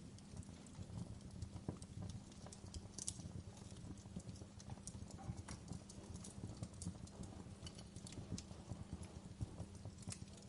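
Wood fire crackling: irregular sharp snaps and pops over a low, steady rumble of the burning fire.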